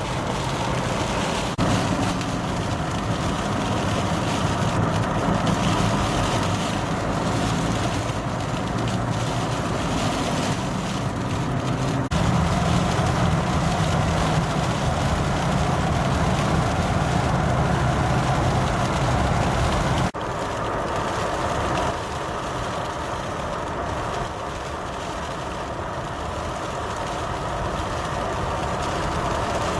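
Motor vehicle engines running with steady traffic noise, the sound changing abruptly a few times where the shots change.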